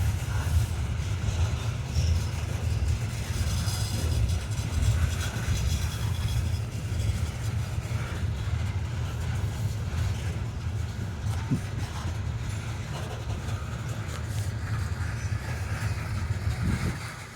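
Coal train rolling past: a steady, loud, low rumble of the cars on the rails that drops off near the end.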